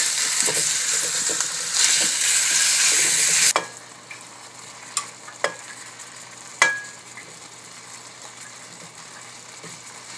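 Raw beef chunks sizzling in hot oil with onions in a metal wok as a wooden spatula stirs them. The sizzle cuts off sharply about three and a half seconds in. After that come quieter stirring and a few sharp knocks of the spatula against the pan.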